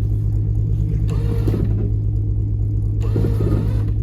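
Vehicle engine running hard at a steady pitch, a constant low hum, while pulling against a truck that is very stuck.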